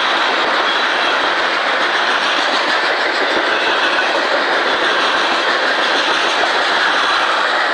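Cars of a manifest freight train rolling past, their steel wheels running on the rails in a steady, loud noise that holds even throughout.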